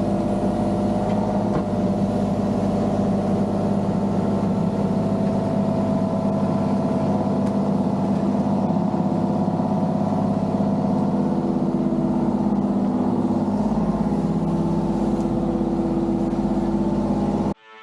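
A motor vehicle's engine running at a steady speed, cutting off suddenly near the end.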